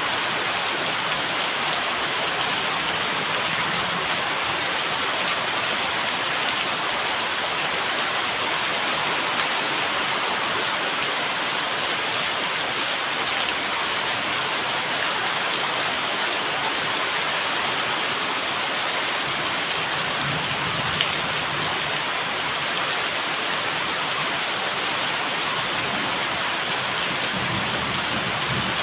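Steady rain falling: an even, unbroken hiss of rain on surfaces, with a couple of sharper drop ticks.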